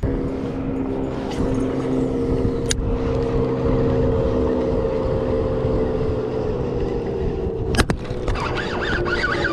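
A motor running at a steady speed: a constant droning hum over a rushing hiss, with two sharp clicks, one about three seconds in and one near eight seconds.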